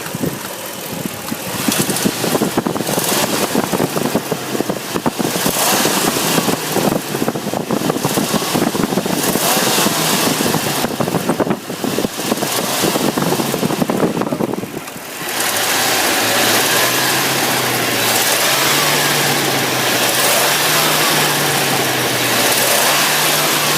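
Toyota 2UZ-FE V8 in a Land Cruiser 100 running with a rapid ticking crackle, which the owner likens to a leaking exhaust manifold gasket; no fault codes show, and swapping coils and plugs has not cured it. About fifteen seconds in the sound turns steadier and fuller, with a low hum that wavers in pitch.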